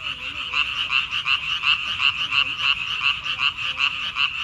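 Loud chorus of many frogs calling at once: rapid, overlapping pulsed croaks repeated without a break.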